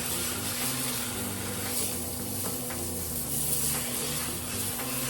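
Chicken tacos frying in a hot pan, with a steady sizzle.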